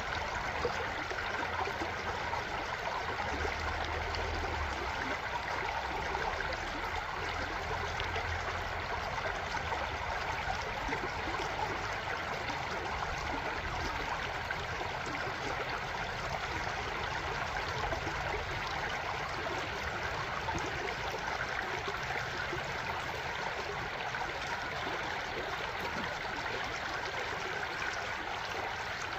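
Flowing water, a steady, unbroken rush of a stream.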